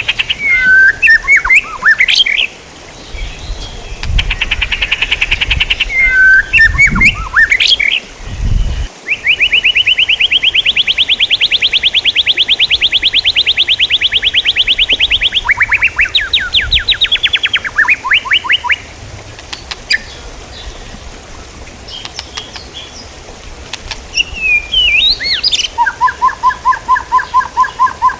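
Songbird calls from a masteran recording for training singing birds: a string of different chattering phrases, then a long rapid trill lasting about six seconds, a series of sharp falling notes, and near the end a fast repeated call on two pitches.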